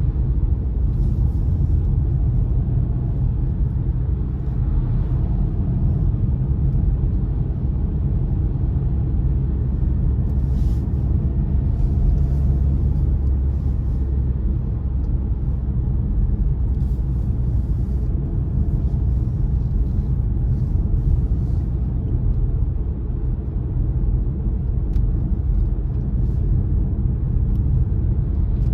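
A car driving at a steady pace, with a continuous low rumble of tyres and engine and a few faint brief hisses higher up.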